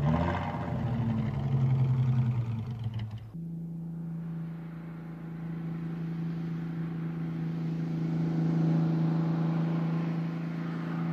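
BMW 315/1 roadster's six-cylinder engine running on the road. For about the first three seconds its note wavers up and down. Then, after a sudden change, it holds a steady, even note that slowly grows louder as the car approaches.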